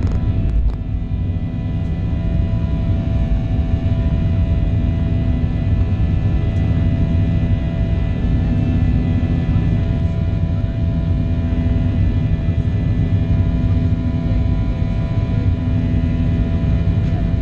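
Boeing 737-800 airliner's jet engines running steadily: a constant low rumble with a few steady hum tones above it, no rise or fall in pitch.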